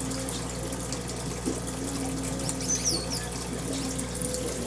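Steady trickling, running-water sound with a low steady hum beneath it, and a few short high chirps from finches about three seconds in.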